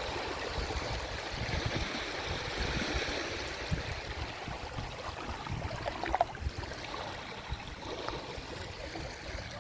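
Small sea waves lapping and washing against the shore, a steady rushing and gurgling of water.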